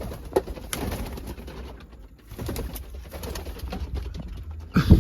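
Pigeons cooing, with a dull thump near the end.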